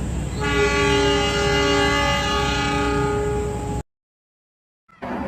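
Passenger-train locomotive horn sounding one long, steady chord for about three and a half seconds over the low rumble of the idling engine, the horn that answers the station's departure signal. It cuts off suddenly.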